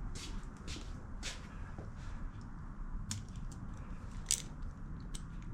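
Scattered light clicks and scrapes of hand tools on the exhaust valve rocker adjuster of a Kohler Courage single-cylinder engine as the valve lash is tightened, with the sharpest click about four seconds in.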